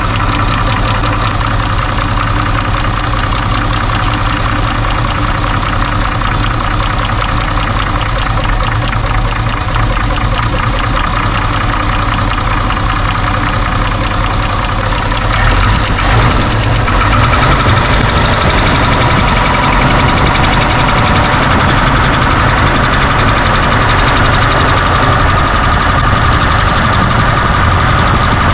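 1963 Chevy pickup's straight-six engine idling with rapid, even valvetrain ticking while its valve lash is adjusted with the engine running. About halfway through there is a brief rough patch, after which the engine sounds deeper and slightly louder.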